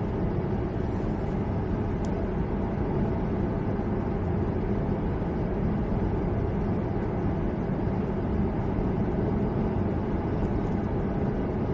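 Car driving at a steady speed: an even drone of engine and tyre noise, low-pitched and unchanging.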